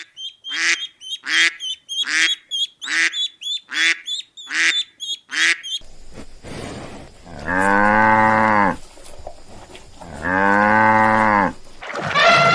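A series of short repeated animal calls, about one every three-quarters of a second. After a cut, a cow moos twice, each moo low and about a second long. Near the end a longer, higher-pitched call begins.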